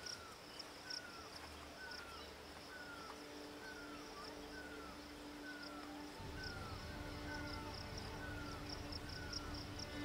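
A bird calling over and over, a short falling chirp about once a second, with faster high-pitched insect chirping behind it and a low steady tone underneath.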